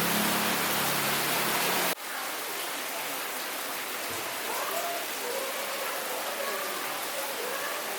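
A steady low hum with a few held tones cuts off abruptly about two seconds in. After it comes an even, steady hiss like rain or rushing water, with faint wavering tones over it.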